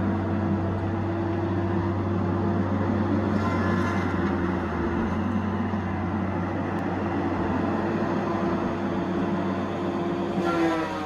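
Diesel engine of a Tigercat 870C feller buncher running steadily under a continuous mechanical hum. Right at the end, its pitch starts to fall.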